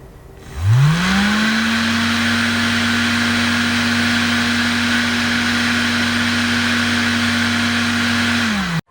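A small electric fan motor spins up quickly about half a second in and runs at a steady speed with a whirring hum and airy hiss. It slows briefly just before cutting off near the end.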